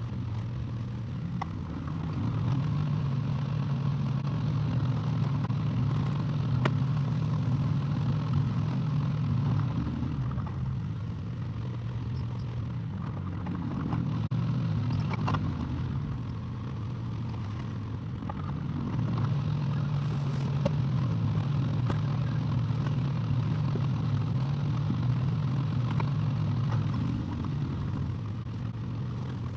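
Excavator's diesel engine running under changing load, swelling louder and easing back several times, with a few sharp clanks.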